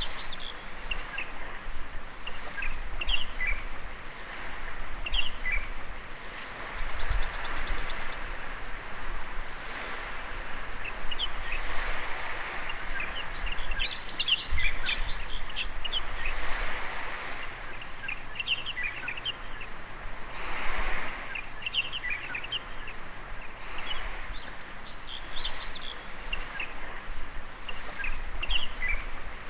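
Small waves washing onto a beach, the wash swelling and fading every few seconds, with small birds chirping and calling throughout, including a quick high trill about seven seconds in.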